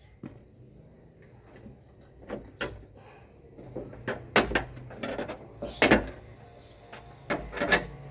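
Irregular knocks and clunks of metal parts being handled inside a car door during a power window repair, a few light taps at first, then louder sharp clanks near the middle and end.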